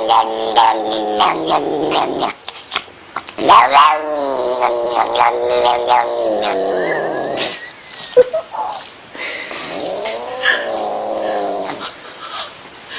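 Domestic cat caterwauling: long drawn-out wails whose pitch slides downward, three in a row, with the last one quieter.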